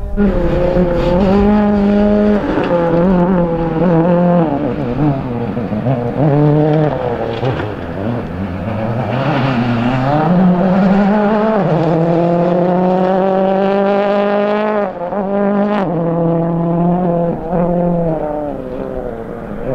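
Rally car engine revving hard under load, its pitch climbing and then dropping sharply again and again as it shifts up and down through the gears.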